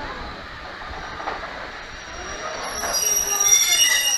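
Wainwright C class 0-6-0 goods steam locomotive No. 592 reversing slowly, its wheels squealing on the rails: a high, thin squeal that builds about three seconds in and is loudest near the end.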